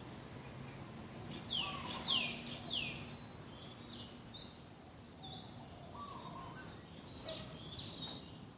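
Several birds calling together: three loud downward-sweeping whistles about a second and a half in, high chirps and short whistled notes throughout, and a fainter, lower warbling call twice.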